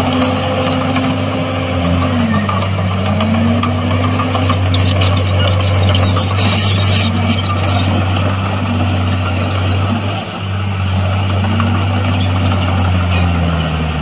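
Bulldozer's diesel engine running steadily with a deep hum, its note dipping and rising a few times as the load changes.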